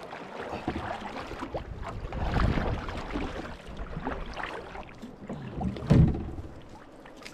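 A swamped canoe being handled after capsizing: water sloshing and the hull shifting. Near the end there is one heavy knock of the hull.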